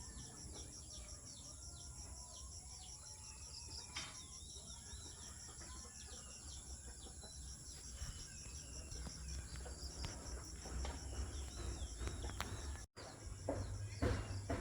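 Countryside ambience: many short, falling bird chirps over a steady, high insect drone with a fast pulsing trill, and a low rumble underneath. The sound cuts out for an instant near the end, followed by a few louder thumps.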